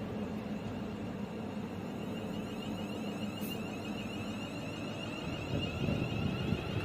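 London Northwestern Railway Class 350 Desiro electric multiple unit at the platform. A steady high-pitched whine sets in about two seconds in, over a low rumble that grows louder near the end.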